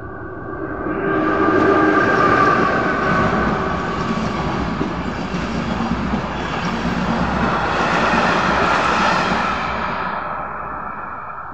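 A locomotive-hauled passenger train passes close by over a level crossing, its wheels and coaches rumbling and clattering. The noise swells about a second in, peaks again near the end of the train and fades away near the end. Beneath it the crossing's electronic warning signal sounds a steady two-note tone.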